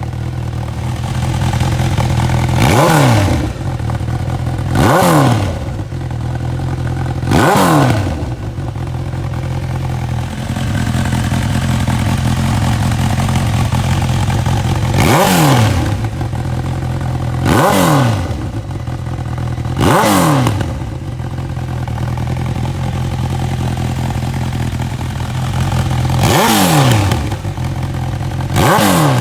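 Honda CB1000R inline-four running through a full-titanium Leiker exhaust. It idles steadily and is blipped sharply about eight times, each rev falling straight back to idle. The blips come in pairs and threes, with a longer stretch of plain idle in the middle.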